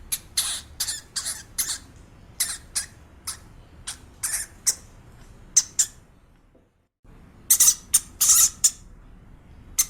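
A small animal giving a rapid series of short, high-pitched squeaks or chirps, several a second, with an abrupt break about two-thirds of the way through before the squeaks resume louder.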